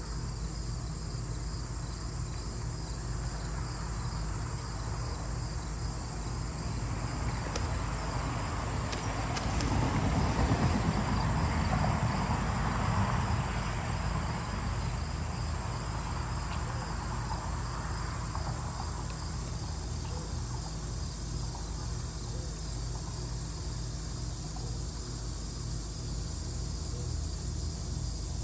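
Insects, such as crickets, trilling steadily at a high pitch. A low rushing noise swells up about eight seconds in, is loudest a few seconds later, and fades away by about twenty seconds.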